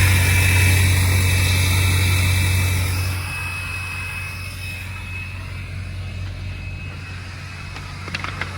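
Pickup truck engine running steadily with a low hum and a thin high whine, loud for about three seconds and then quieter, as if the truck pulls away or drops off throttle.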